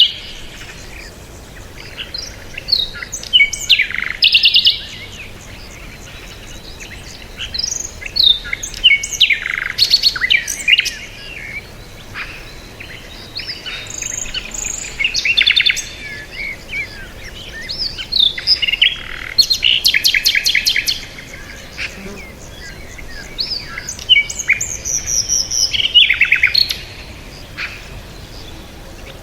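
Several songbirds chirping and singing at once: a steady stream of short chirps, whistled notes and fast rattling trills, in clusters every second or two.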